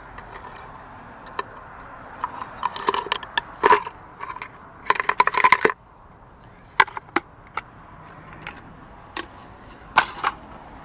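Metal clinks and knocks of tools and parts being handled: scattered sharp knocks, with a dense rattling clatter about five seconds in and a few single knocks later.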